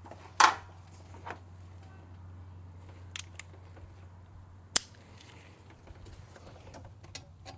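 Short metallic clinks and clicks of a socket and extension being handled and tried on the turbo's mounting bolts: a loud clink about half a second in, a sharp click near the middle, smaller taps between, over a low steady hum.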